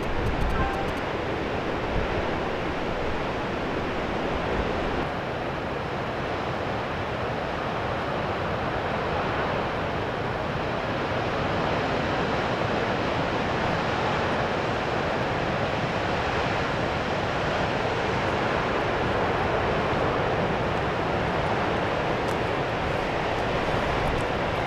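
A steady rushing noise with no distinct events, swelling slightly in the middle and easing again.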